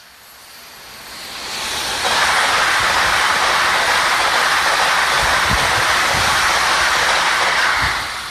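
A train passing close at speed: the rushing rolling noise builds over about two seconds, then holds loud and steady, with a few low thuds in the second half.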